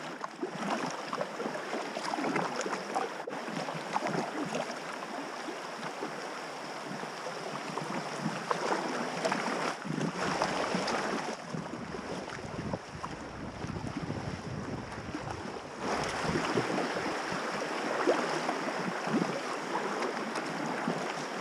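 River water rushing and splashing around a packraft running a small rapid. From about ten to sixteen seconds in, wind rumbles on the microphone as well.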